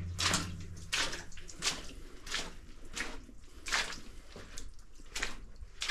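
Footsteps wading through shallow water in a flooded mine tunnel: a steady series of splashes, about one every two-thirds of a second.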